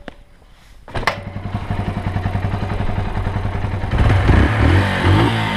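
Yamaha XT125X's single-cylinder four-stroke engine starting about a second in, then running with a pulsing exhaust note and rising briefly in revs about four seconds in.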